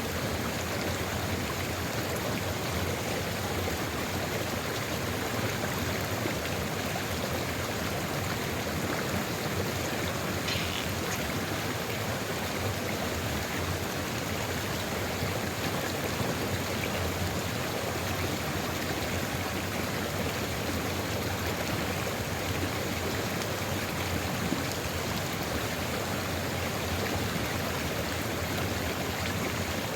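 Sulfur river flowing steadily, a continuous rush of running water.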